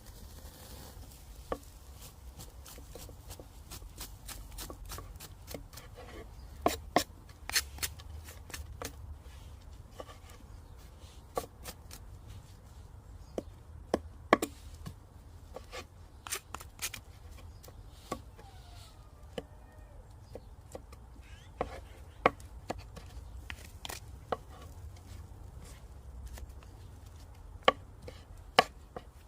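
Knife chopping and cutting on a wooden board: irregular sharp taps and knocks, some in quick runs of two or three, with the busiest runs about a third of the way in and near the end.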